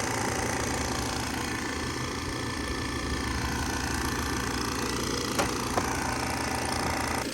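Refrigerant recovery machine running steadily, pulling refrigerant out of the system, with a couple of light clicks about five and a half seconds in.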